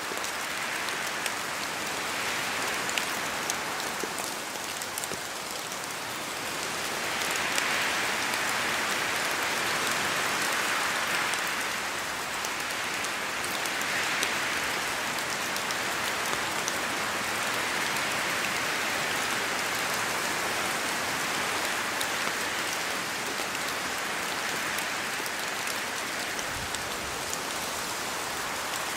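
Steady rain in a forest, with drops falling from the trees and ticking close by; the hiss swells and eases several times with gusts of wind.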